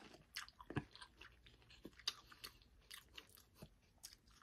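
Faint close-up chewing of crispy fried chicken breast: soft, irregular crunches of the fried crust.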